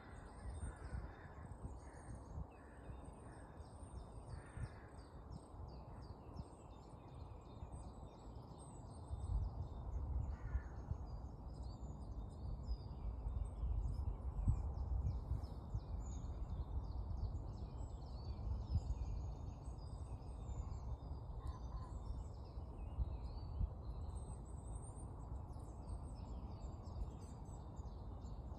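Dawn birdsong of many small birds chirping high and steadily, with a crow cawing several times in the first few seconds and once more about ten seconds in. A low rumble underneath grows louder from about nine seconds in.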